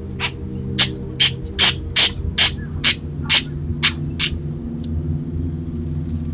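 An animal at a bird feeder making a quick series of about ten short, harsh calls, two to three a second, over a steady low hum.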